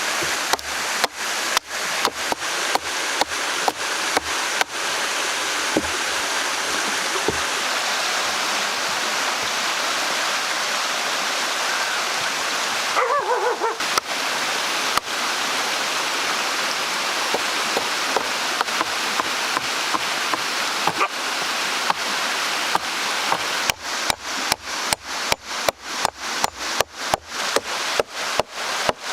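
Steady rushing water of a stream, with a series of sharp knocks: about one a second at first, then a fast run of about three a second near the end. A brief wavering high call is heard about halfway.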